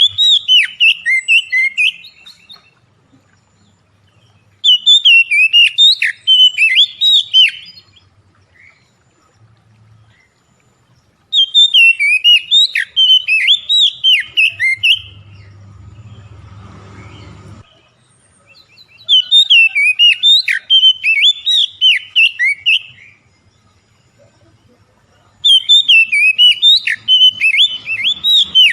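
Oriental magpie-robin (kacer) song: rapid runs of sharp, whistled chirps, delivered in bursts of about three seconds that repeat five times with short pauses between.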